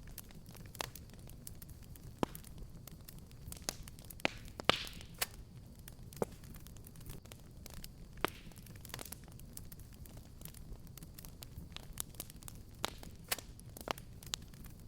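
Fireplace fire crackling, with irregular sharp pops over a steady low rumble. The loudest pop comes about five seconds in, with a brief hiss.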